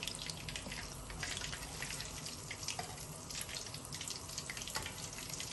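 Breaded chicken leg pieces deep-frying in oil that is not yet very hot: a steady sizzle with many small crackles and pops.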